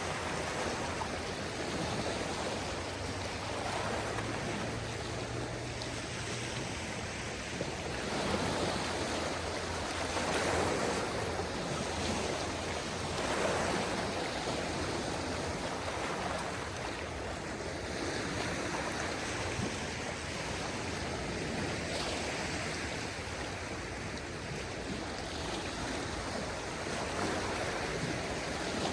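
Small waves of a calm sea washing and lapping on the shore: a steady wash of water that swells gently every few seconds.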